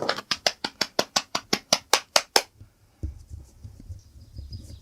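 Quick, even scratchy strokes of a grooming brush through a dog's shedding coat, about six a second, stopping about two and a half seconds in. A low rumble follows.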